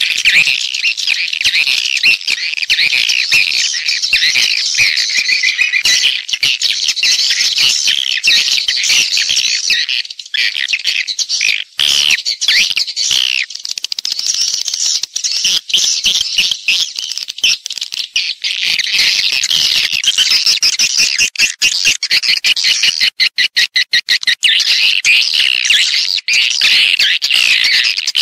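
Swiftlets twittering in a dense, continuous, shrill chorus of chirps. This is a swiftlet call-and-roost lure recording. A run of rapid clicks comes about two-thirds of the way through.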